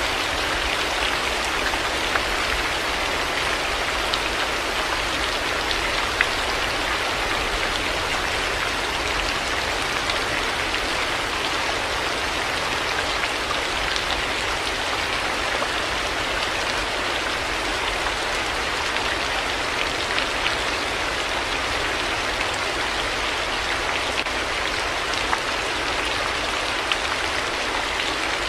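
Heavy rain falling steadily, a dense hiss of drops with occasional sharper individual drop ticks.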